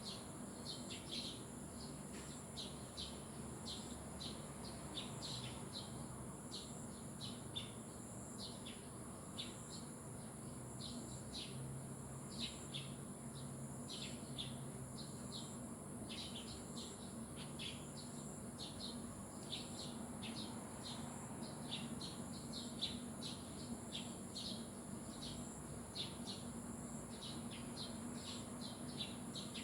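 A flock of small birds chirping and twittering without pause, many short high chirps a second, over a steady high-pitched whine and a low background hum.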